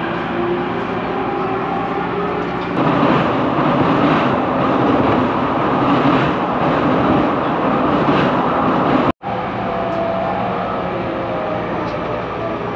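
JR Musashino Line electric train running, heard from inside the carriage. The running noise gets louder from about three seconds in as the train crosses the steel truss bridge over the Arakawa. After a brief cut it is quieter, with a faint whine.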